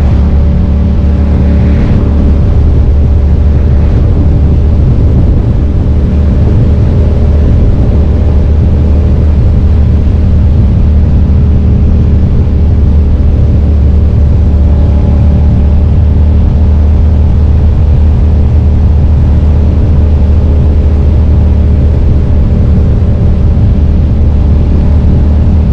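2005 Suzuki SV650S's 645 cc V-twin engine running at a steady cruise, its pitch holding nearly constant, under a loud, steady low rumble.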